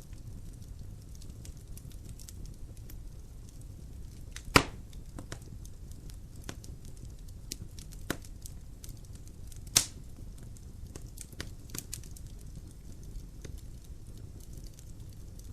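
Logs burning in a fireplace: a steady low rumble of the fire with scattered sharp pops and crackles, two loud snaps standing out about four and a half and ten seconds in.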